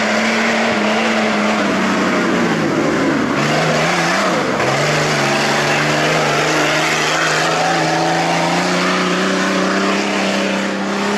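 Off-road race vehicle's engine running hard at steady revs. About four seconds in, the revs dip and waver, then settle and slowly climb again.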